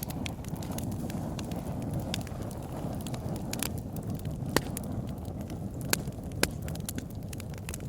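Campfire burning: a steady low roar of flames with wood crackling, sharp pops scattered through it and a few louder snaps.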